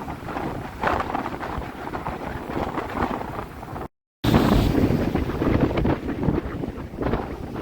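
Tropical-storm wind buffeting the microphone in gusts, a rough rumbling roar. It cuts out for a moment about four seconds in and comes back louder.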